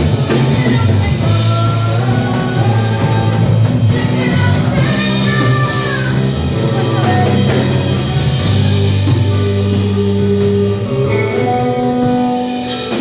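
Gospel worship song played by a band, with guitar and drum kit sustaining chords.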